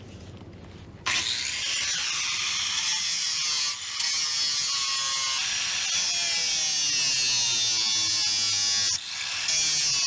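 Electric grinder running on aluminum plate. It starts about a second in, its whine rising and falling as the load changes, and eases off briefly twice.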